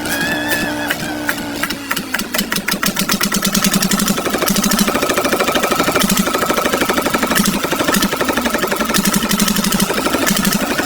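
Small diesel engine, started by turning it over from a bicycle, firing about two seconds in and then running with a rapid, steady knocking beat.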